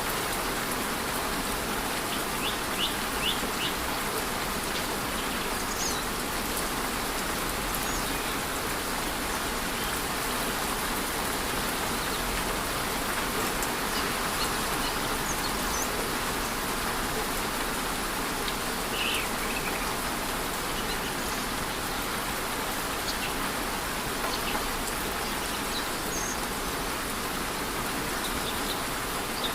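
Waterfall in light rain: a steady rush of falling water, with a few short bird chirps scattered through, a quick run of them about three seconds in.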